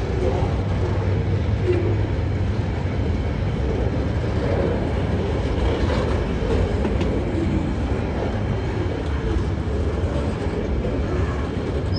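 Freight train of container wagons rolling slowly past at walking pace through a 15 km/h speed restriction, a steady rumble of wheels on the rails with a constant low hum.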